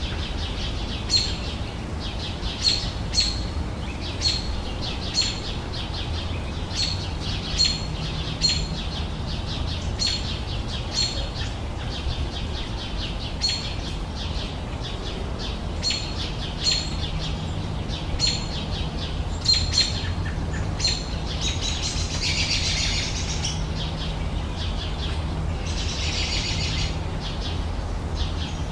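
Birds singing: a steady series of short, sharp chirps, about one a second, then two longer bursts of busier warbling song in the last third. A low steady rumble runs underneath.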